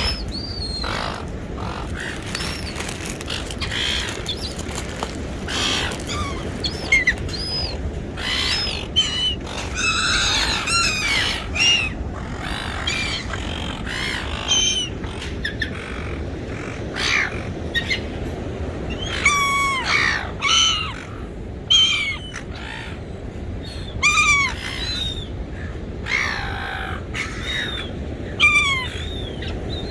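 Seagulls calling over and over: short arching cries, several overlapping in busy spells, over a steady low rumble.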